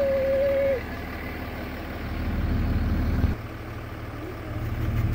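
A car engine idles, heard from inside the cabin as a steady low rumble that shifts abruptly a little over three seconds in. A steady tone sounds for the first second, then stops.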